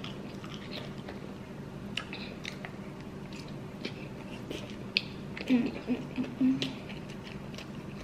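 Wet chewing, biting and small mouth clicks of someone eating saucy chicken wings. A short voiced murmur a little after the middle is the loudest sound.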